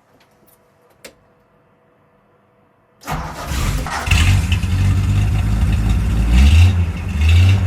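The van's carburettor engine starting readily on half choke: it fires about three seconds in and runs straight away, its revs rising and falling a couple of times near the end. The easy start shows a freshly freed choke cable doing its job.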